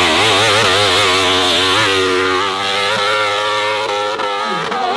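Racing motorcycle engine running at high revs, its pitch wavering quickly up and down as the throttle works.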